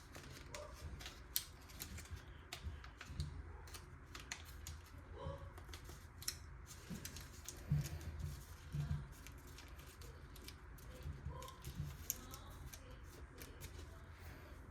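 Faint crinkling and clicking of origami paper being folded and creased by hand, in scattered short crackles.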